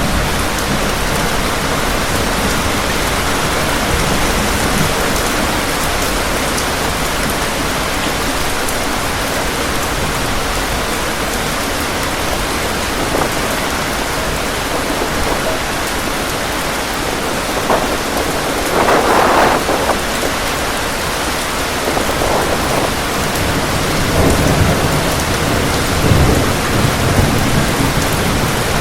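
Heavy rain falling steadily with wind. A brief louder surge comes about two-thirds of the way in, and low rumbles follow near the end.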